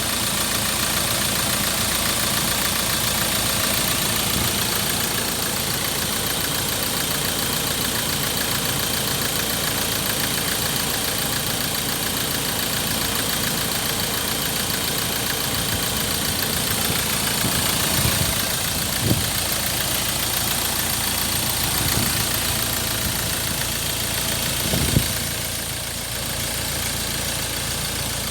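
Ford Ranger 2.2-litre four-cylinder turbodiesel engine idling steadily, with a few brief knocks in the second half.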